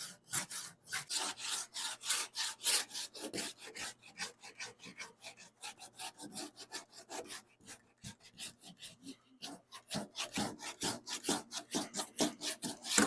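Sanding block rubbed by hand over cured auto body filler on a car's wheel lip, in quick back-and-forth strokes of about four a second. It is the shaping and smoothing of the filler layer to bring the wheel arch body line true.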